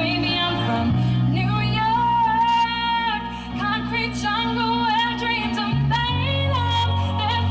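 A woman singing live over instrumental accompaniment of held low chords, with the chords changing about a second in and again near the end.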